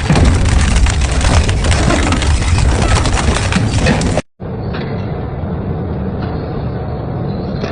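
Industrial double-shaft metal shredder crunching scrap metal, a dense clatter of cracks and snaps over a heavy grinding. About four seconds in it cuts off abruptly and gives way to a steadier, quieter grinding of the shredder running.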